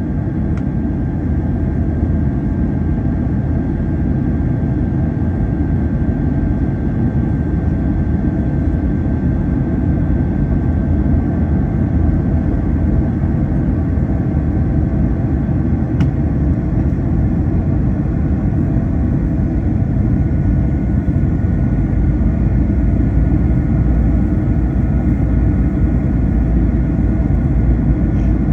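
Steady, loud cabin noise of an Airbus A321 airliner: a deep rumble of jet engines and airflow, with a thin high engine whine that steps slightly lower in pitch about two-thirds of the way through.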